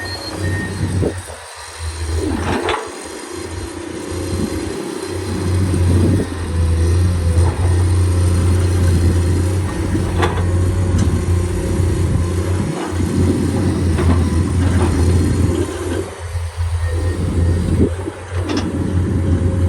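Heavy diesel engine of earthmoving machinery running steadily with a deep drone, with a few sharp knocks scattered through it.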